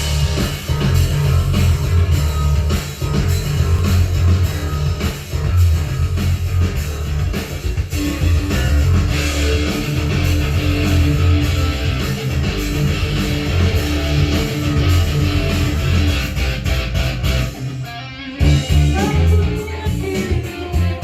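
Rock band playing an instrumental intro: guitar over bass and a drum kit keeping a steady beat, with a brief break about eighteen seconds in before the full band comes back.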